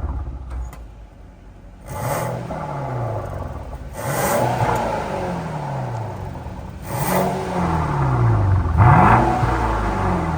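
Stage 3+ tuned Mercedes-Benz W222 S560 twin-turbo V8 through an aftermarket Underground Exhaust system, revved four times in quick throttle blips. Each rev rises sharply and then falls back, and the last one, near the end, is the loudest.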